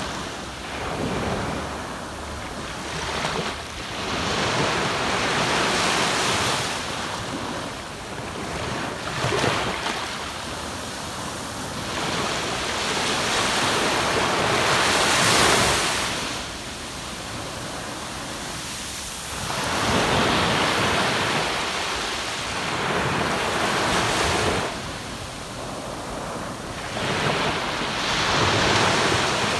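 Shallow surf breaking and washing up a sandy beach, swelling and ebbing in surges every few seconds.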